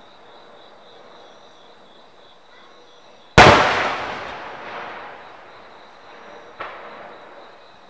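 A firework shell bursts with one loud boom about a third of the way in, and the sound rolls away over a couple of seconds. A much fainter pop follows near the end.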